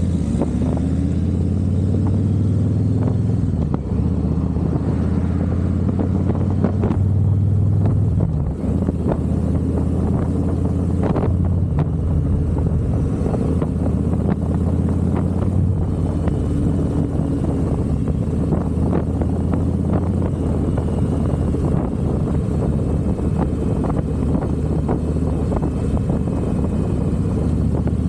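Harley-Davidson V-twin engine running steadily while riding, with a haze of road and wind noise. The level dips briefly about eight seconds in, as at a gear change.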